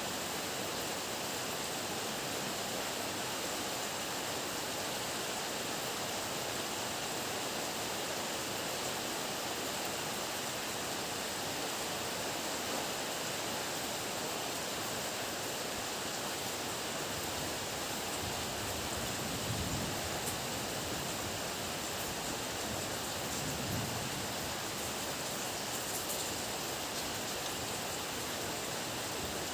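Heavy rain falling steadily, an even hiss. Two brief low swells rise under it about two-thirds of the way in.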